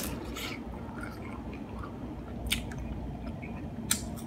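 Hard-shell taco being bitten into and chewed close to the microphone: sharp crunches of the crisp shell right at the start, then wet chewing with further crackling crunches about two and a half seconds in and near the end.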